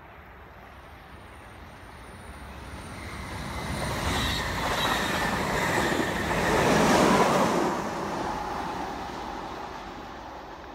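SBB electric commuter train passing close by on the line: a rising rush of wheels on rail as it approaches, loudest as the carriages go past about seven seconds in, then fading as it runs away.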